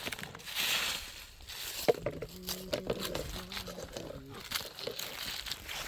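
Crunching and rustling of dry leaves and twigs being handled or trodden on, with a sharp snap about two seconds in. A faint wavering tone, like a distant voice, runs behind it through the middle.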